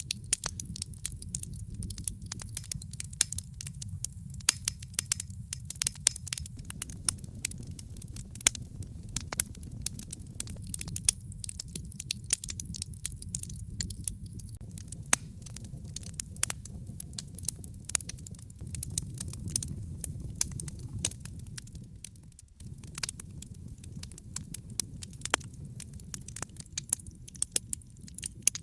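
Wood fire crackling in a fireplace: irregular sharp pops and snaps over a steady low rumble, which drops out for a moment about 22 seconds in.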